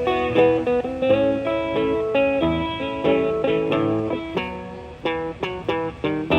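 Guitar played live: a quick run of single picked notes, with a note bent upward about a second in.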